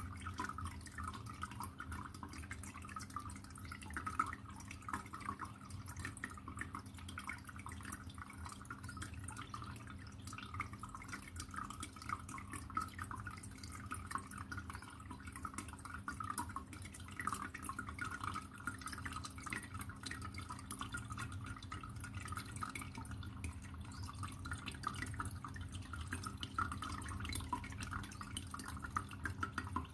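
Water trickling and dripping steadily in a fine continuous patter, over a low steady hum.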